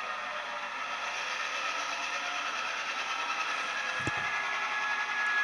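Model EMD FP7 and F7B diesel locomotives running with their sound-effect diesel engine noise: a steady hum with faint high tones over it. There is a single sharp click about four seconds in.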